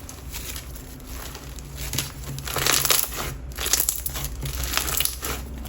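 Clear slime packed with silica beads being squeezed and pressed by hand, giving dense runs of crunchy crackling that swell twice.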